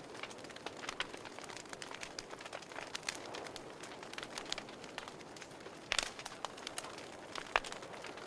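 Wood fire burning in a fireplace: a soft steady hiss with irregular crackles and sharp pops, the loudest pops about six seconds in and again a second and a half later.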